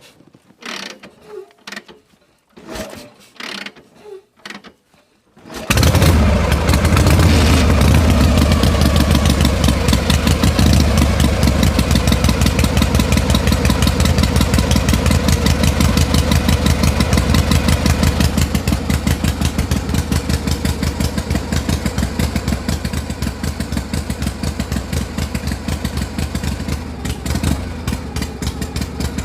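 A small engine on a homemade mini tractor/power tiller starts suddenly after a few seconds of scattered clicks and knocks. It then runs steadily with a rapid, even putter, a little unsteady near the end.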